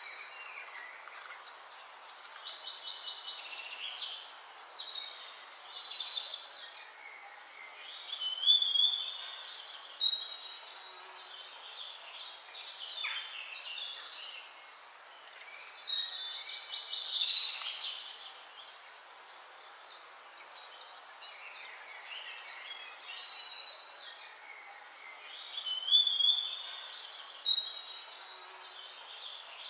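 Several songbirds singing and chirping over a steady hiss, with louder bursts of song every few seconds.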